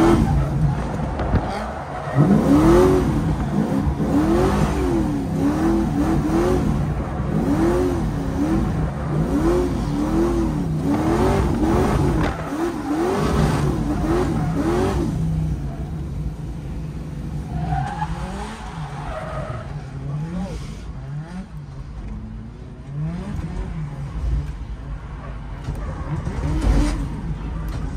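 Automatic drift car's engine being revved up and let fall again and again, about once a second, with tyres skidding on a wet track; after about fifteen seconds the revving stops and it runs on more evenly and quietly.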